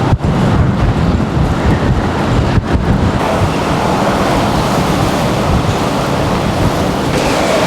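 Typhoon wind gusting hard and buffeting the microphone, with a rushing noise that grows louder about three seconds in.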